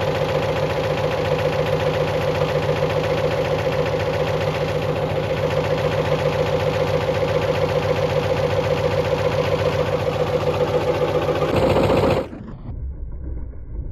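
Bosch washing machine running at speed with a steady, fast-pulsing mechanical drone. About twelve seconds in it cuts off suddenly, leaving a quieter low hum.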